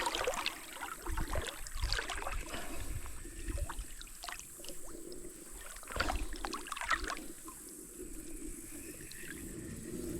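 Water moving around a small paddle boat on a creek, with scattered light knocks and clicks.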